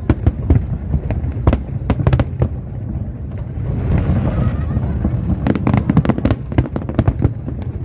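Aerial fireworks going off in a rapid, irregular string of sharp bangs over a continuous low rumble, with a stretch of crackling hiss about halfway through.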